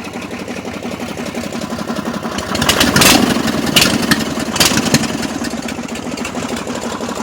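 Engine of a home-built mud vehicle idling low shortly after a cold start. About two and a half seconds in it gets louder for a couple of seconds, with three sharp cracks, then settles back to idle.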